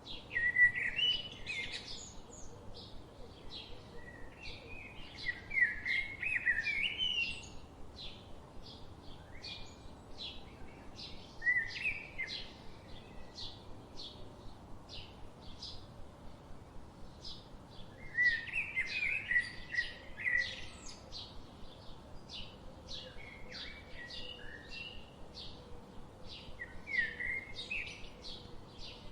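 Forest birdsong: more than one bird singing. Warbled song phrases come every few seconds, six times in all, over a steady run of short, high chirps.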